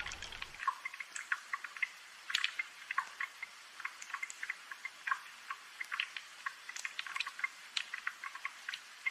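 Rain drops dripping and tapping in quick, irregular clicks over a light hiss of falling rain. A low rumble drops away about half a second in.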